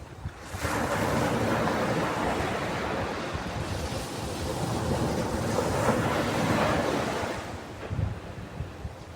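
Ocean waves on a beach: one wave swells in about half a second in, rushes on for several seconds, and ebbs away near the end before the next one comes in.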